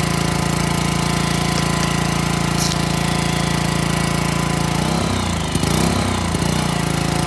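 Pressure washer running steadily, its pump and motor making a loud, even drone that wavers for a second or so about five seconds in.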